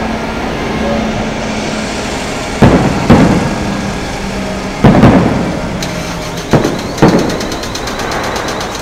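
Fireworks shells bursting overhead: six sharp booms in three close pairs, each echoing away. A fast, even crackle sets in over the last few seconds.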